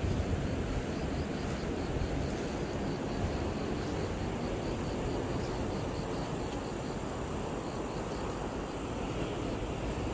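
Steady low rumble of sea wind and surf, with a faint insect chirping at a high pitch about three times a second.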